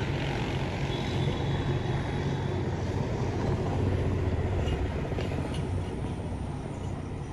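Road traffic on a main highway: a steady rumble of passing vehicles that swells about halfway through and then eases off.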